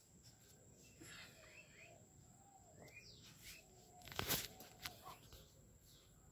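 Faint outdoor birdsong: scattered short chirps and calls from birds. About four seconds in there is one brief, louder rustle.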